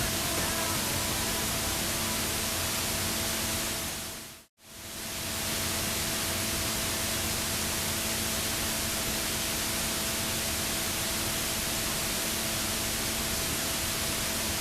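Steady, even hiss with a faint steady hum. It fades out to silence about four and a half seconds in, then fades back up and holds steady.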